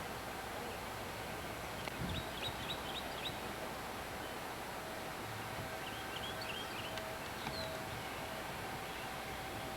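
A songbird chirping outdoors: two short runs of quick, high notes, one about two seconds in and another about six seconds in, over steady background hiss and a faint steady hum.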